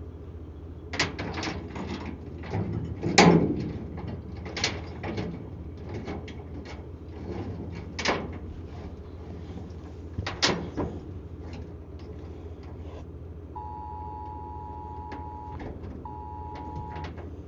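Scattered sharp knocks and clanks over a steady low engine-like hum, the loudest knock about three seconds in. From about two-thirds of the way through, a steady electronic two-tone beep sounds, breaking off briefly and starting again near the end.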